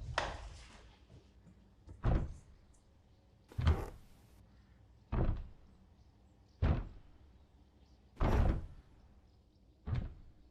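Six dull thuds at a slow, even pace, about one and a half seconds apart.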